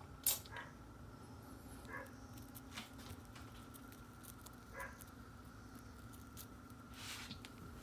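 Faint scattered clicks and rustles, as of light handling, over a steady faint hum.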